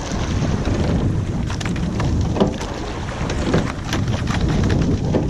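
Rowing eight under way: wind on the microphone and rushing water noise, with a sharp knock at each stroke roughly every two and a half seconds.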